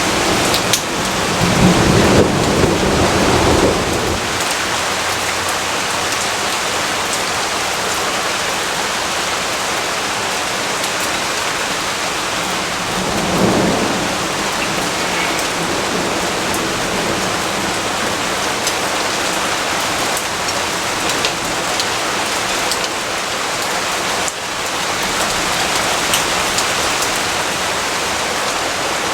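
Steady heavy rain falling, with a rumble of thunder rolling in about a second in and a fainter rumble around the middle.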